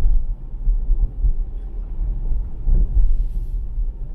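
Low, uneven rumble of a Tesla Model Y's tyres and suspension rolling slowly over a snowy, icy road, heard from inside the car.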